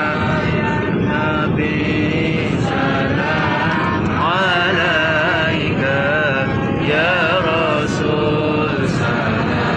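Many voices chanting sholawat, devotional Arabic blessings on the Prophet, together in a drawn-out melodic chant, over the steady low hum of an airliner cabin.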